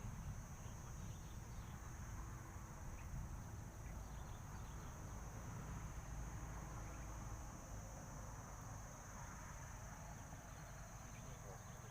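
Insects singing outdoors: one steady, unbroken high-pitched buzz, over a low rumble.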